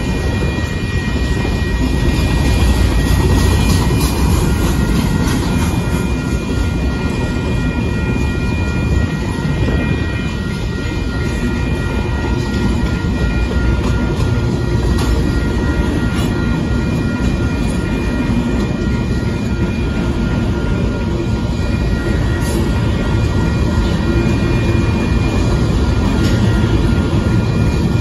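Freight train of covered hopper cars rolling past, a steady, heavy rumble of steel wheels on rail with some clacking over the joints. A few thin, steady high tones sit over the rumble.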